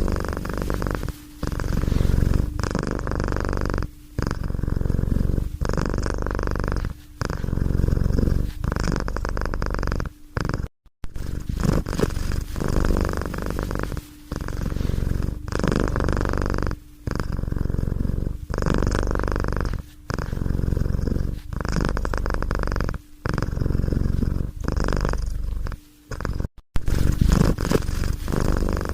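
Domestic cat purring close up, the purr rising and falling in cycles of about a second and a half with short dips between breaths.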